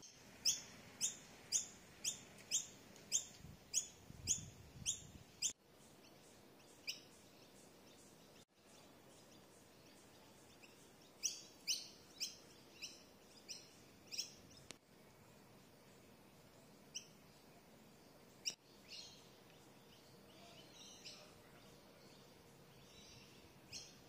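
A bird calling with short, sharp, high chirps, about two a second for several seconds, then after a pause more chirps, first in a quick run and later scattered.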